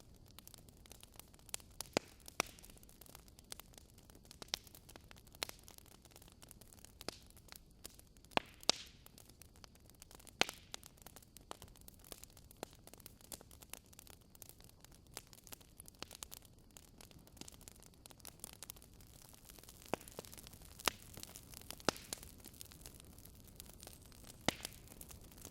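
Wood fire burning in a fireplace: a low steady hiss and rumble with sharp, irregular crackles and pops scattered throughout.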